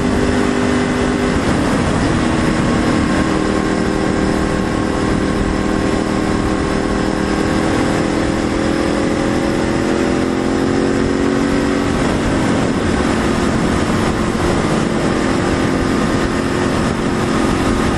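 A motorcycle engine running under way, heard over heavy rush of riding wind. Its pitch drops about a second and a half in, climbs slowly, then drops again about twelve seconds in, as with throttle changes or gear shifts.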